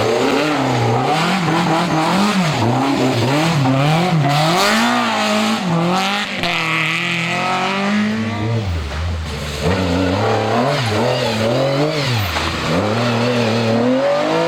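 Historic rally car engine revving hard, its pitch climbing and dropping over and over as the driver accelerates, lifts and changes gear, with two deeper dips where it slows for corners.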